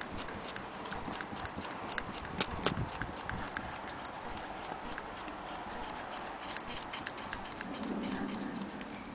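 Willcox & Gibbs sewing machine clicking rapidly as its mechanism is worked, the clicks quickening after a few seconds.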